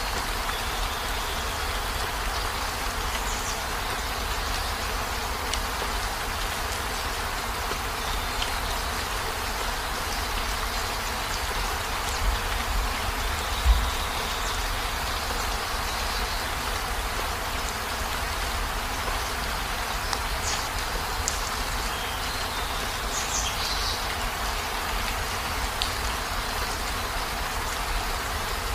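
Steady heavy rain, a continuous even hiss over a low rumble, with faint short high chirps now and then and a single dull thump about halfway through.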